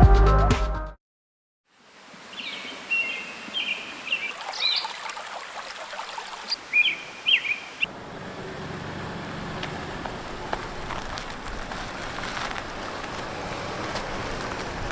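Electronic music ending about a second in, then outdoor background noise with a bird chirping in short calls several times. From about eight seconds in, a steadier background rumble of outdoor noise takes over.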